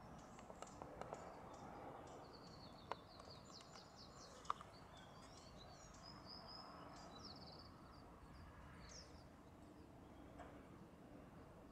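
Quiet outdoor ambience with small birds chirping in quick high trills from about two seconds in until about nine seconds. Two short sharp clicks stand out, a second and a half apart.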